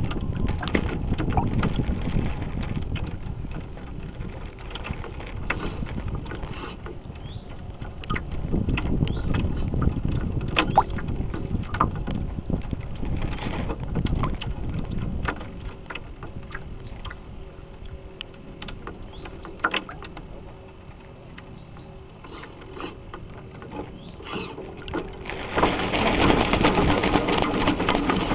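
Wind buffeting the microphone of an onboard camera on an RC sailboat, with water washing against the hull, in gusts that rise and fall. Small clicks and knocks are scattered throughout, a faint steady hum runs through the middle, and a louder hiss comes near the end.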